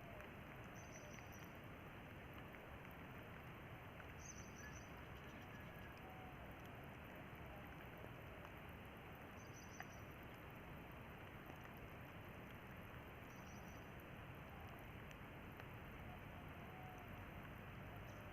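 Rain falling steadily: a faint, even hiss of drops.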